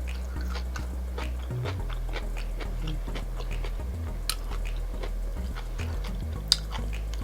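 Close-miked chewing and mouth sounds of a person eating, a run of small wet clicks with two sharper smacks about four seconds in and near the end.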